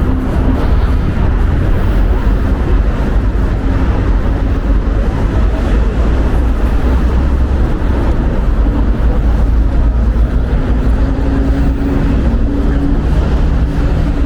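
Wind buffeting the microphone in a steady low rumble, with city street traffic underneath and an engine hum that fades in near the end.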